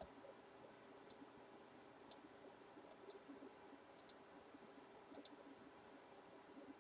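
Faint clicks of a computer mouse and keys, single or in quick groups of two or three, about once a second, over near-silent room tone.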